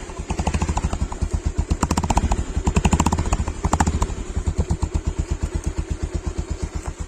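Bajaj Pulsar 150's single-cylinder engine running through its exhaust, with a steady rapid pulsing at about ten beats a second. Between about two and four seconds in the throttle is blipped, so the beats get louder and sharper before it settles back to idle.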